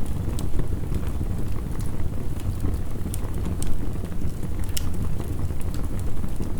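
Crackling wood fire over heavy rain: a steady, deep rushing noise with scattered sharp crackles and pops.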